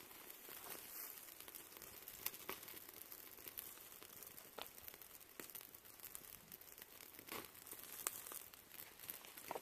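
Meat sizzling over a campfire, with irregular crackles and pops from the fire over a faint steady hiss.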